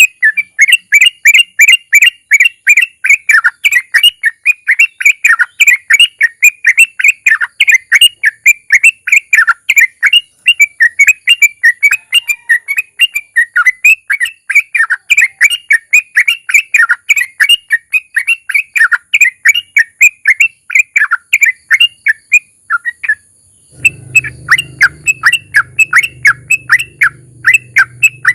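Yellow-vented bulbul (trucukan) singing a long, fast run of short repeated chirping notes, several a second, in the rapid 'ropel' style. The run breaks briefly about 23 s in, and a low hum comes in under the song near the end.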